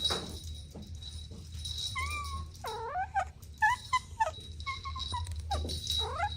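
Kittens mewing: a run of about five short, high-pitched calls, some rising and falling in pitch.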